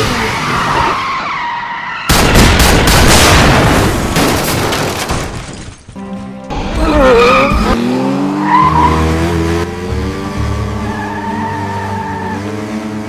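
Action-film chase soundtrack: a sudden loud crash-like burst about two seconds in, then engines revving up and down with skids, all over music.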